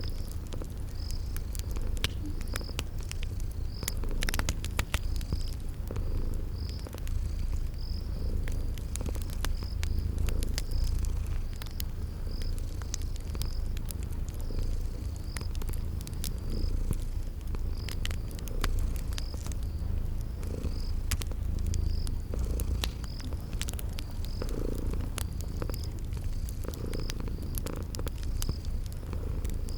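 Cat purring in a steady low rumble, with scattered sharp pops of a crackling wood fire and a cricket chirping regularly, about one and a half chirps a second.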